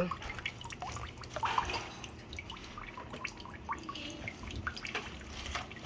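Water trickling and dripping at a kitchen sink, with scattered small clicks and splashes.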